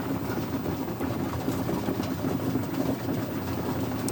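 Steady rain falling, with a dense low murmur of a loft of young racing homer pigeons underneath.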